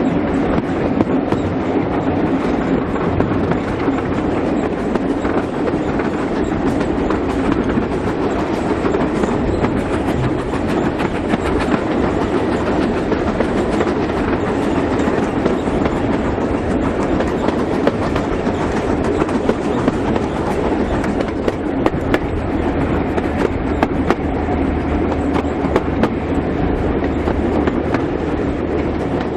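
Steam-hauled heritage passenger train running steadily on the line, a continuous even noise of the moving train with many small clicks and rattles through it.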